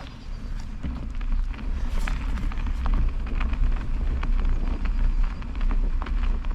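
Wind rumbling on the microphone, with many small crackles and clicks from a bicycle rolling off over a road with fresh snow on it.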